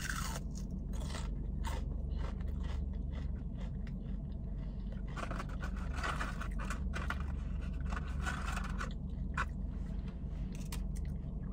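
Close-up chewing of crispy fried onion petals: a run of short, crisp crunches and mouth sounds, over a low steady hum.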